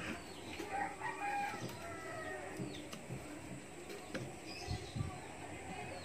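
Bird calls in the background, a series of short rising and falling cries in the first two seconds, over a few light knocks from metal parts being handled as a washing machine motor pulley is fitted.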